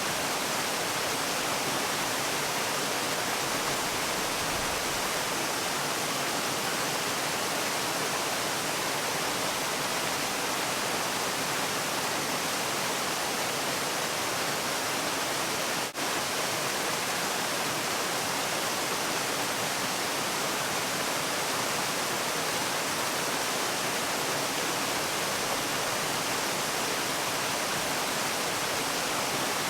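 Waterfall: a steady, even rush of falling water, with one momentary dip in level about halfway through.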